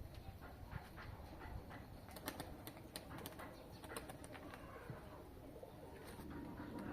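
Domestic pigeons cooing, with a scatter of short sharp clicks, thickest around the middle.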